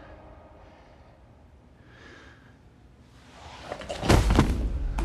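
A quiet stretch, then about four seconds in a loud, heavy thump made of a few quick strokes close together.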